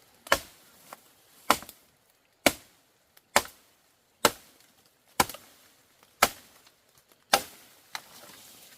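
Chopping into wood with a blade: eight sharp strikes, about one a second.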